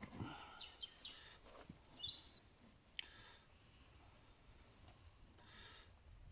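Faint birdsong: small birds chirping now and then over quiet background noise, with a couple of light knocks.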